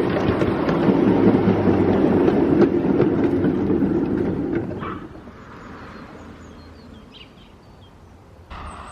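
5-inch gauge miniature railway train running on its track, a steady rumble with the wheels clicking over the rail joints, which dies away about five seconds in. Faint bird chirps follow.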